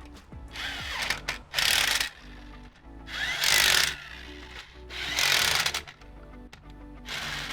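A power tool run in five short bursts of about half a second to a second each, over background music with a steady beat.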